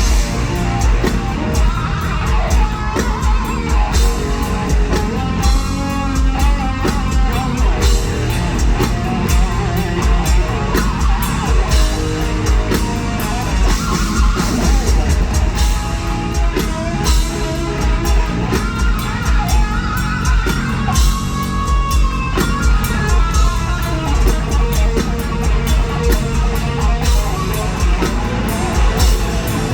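Heavy metal band playing live: distorted electric guitars over bass and drum kit, with a heavy low end.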